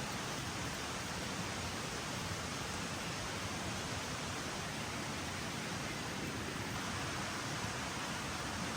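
Steady rain falling on the forest, an even hiss.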